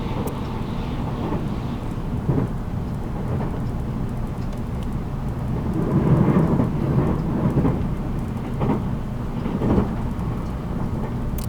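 Running noise inside a 783 series electric train's motor car (MoHa 783): a steady low rumble of wheels on rail that swells about six seconds in, with a few single knocks.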